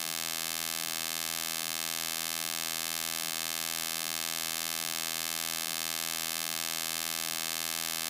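Steady electrical mains hum, a buzz with many evenly spaced overtones that stays unchanged throughout.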